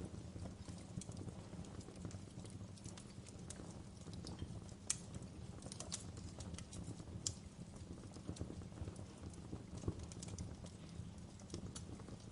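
Log fire in a fireplace crackling: irregular sharp pops and snaps over a steady low rumble, with a few louder pops about five, seven and ten seconds in.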